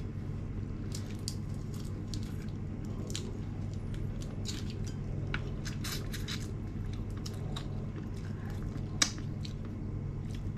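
Close-up eating sounds: chewing and wet mouth smacks with scattered small clicks, and one sharper click about nine seconds in, over a steady low hum.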